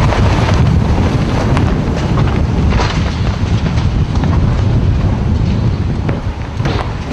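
Strong wind buffeting the microphone: a loud, steady rumbling roar with a few short sharp cracks mixed in.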